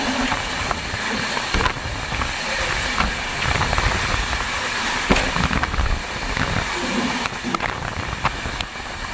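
Moving passenger train: steady running noise of wheels on the rails, with frequent sharp clicks and rattles.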